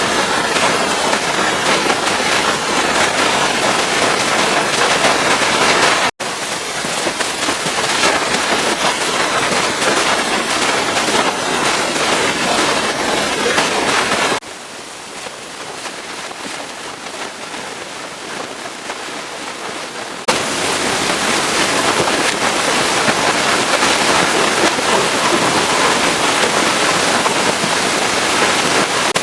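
Pressure washer spray hitting the truck, a steady loud hiss. It cuts out for an instant about six seconds in, and runs quieter for about six seconds in the middle before returning at full strength.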